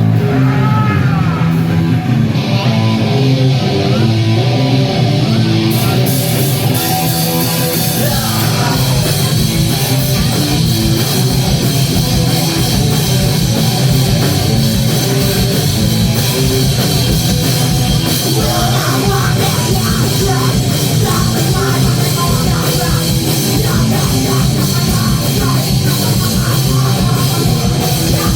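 A live punk/metal rock band playing loud, with distorted guitar and drum kit. The opening is thinner, and it builds to the full band pounding along from about eight seconds in.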